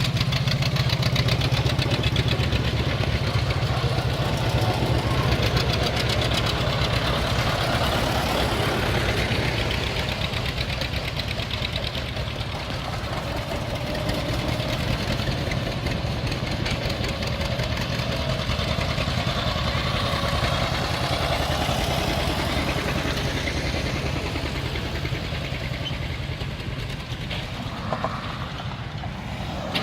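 John Deere two-cylinder tractor engine running with a steady, even exhaust beat.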